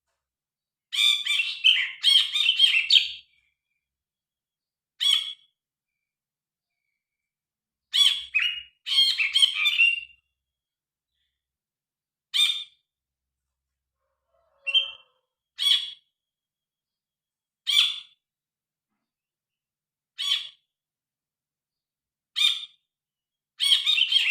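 Cinereous bulbul (brinji kelabu) singing loud, varied chirping phrases. Bursts of several phrases come near the start, around the middle and at the end, with single short calls every couple of seconds between them and clean silence in the gaps.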